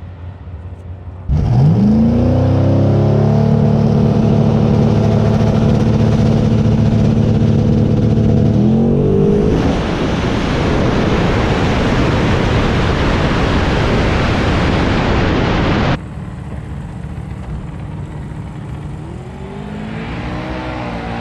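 Twin-turbo LS V8 drag car engine revving up sharply and holding steady high revs for several seconds, then climbing into a loud rushing full-throttle run. The sound drops off abruptly about two-thirds of the way through, and the engine rises again near the end.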